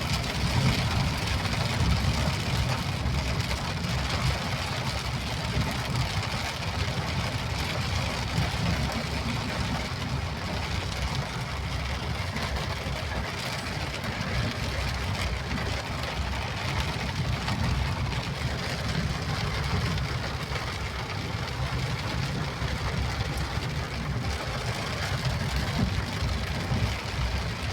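Steady vehicle engine and road noise with rain falling, a continuous low rumble under a hiss.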